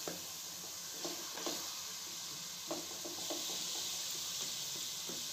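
Chopped tomatoes frying in oil in a metal kadhai, a steady sizzle, while a wooden spatula scrapes and knocks against the pan several times as the masala is stirred and fried.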